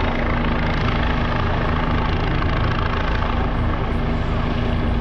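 Sheriff's helicopter running steadily overhead: a constant rotor and engine drone with a heavy low rumble and a steady hum.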